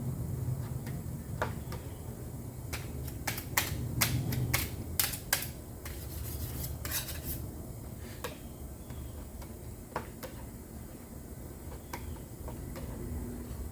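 A plastic body-filler spreader scraping and clicking against a hard mixing surface as the filler is worked, in a quick run of sharp strokes a few seconds in, over a low steady hum.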